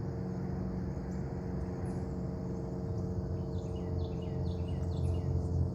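Outdoor pond ambience: a bird calls in a quick series of short, falling chirps from about three and a half to five seconds in, over a steady high insect buzz and a steady low hum.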